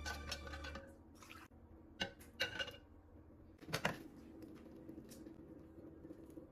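Background music ending within the first second, then a few short, light clinks and knocks of kitchenware being handled, the loudest about four seconds in.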